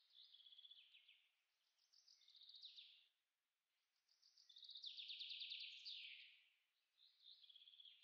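Faint bird calls: four short phrases of rapid notes, each sliding down in pitch, with the longest and loudest about five seconds in.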